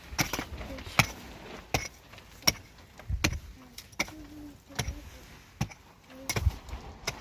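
Regular sharp knocks, about one every three-quarters of a second, as from something being struck over and over.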